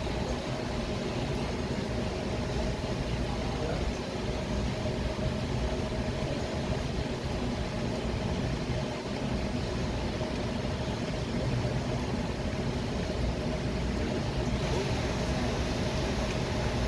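Steady city traffic noise: a continuous low rumble of passing and idling vehicles, with a faint steady hum running through it.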